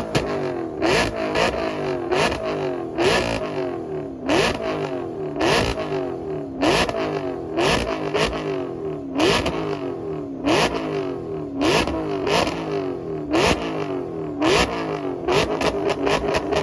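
High-performance V8 car engine revved hard in quick repeated blips, roughly one a second. Each blip rises in pitch and ends in a sharp crack.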